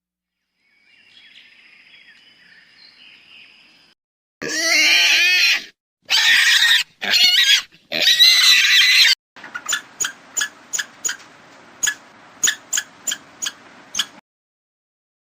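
Animal calls in separate bits: a faint high sound, then four loud high-pitched calls with wavering pitch, then a string of sharp short ticks, about three or four a second.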